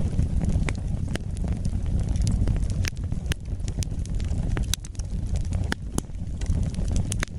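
Wood fire burning in a fireplace: a steady low rumble of flames with a dozen or so sharp crackles and pops at irregular intervals.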